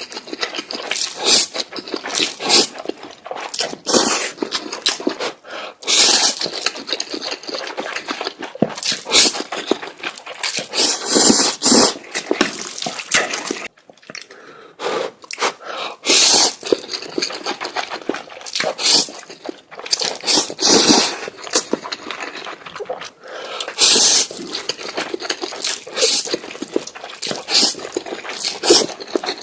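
Close-miked noodle eating: repeated loud, hissy slurps of spicy noodles with wet, smacking chewing and clicks in between.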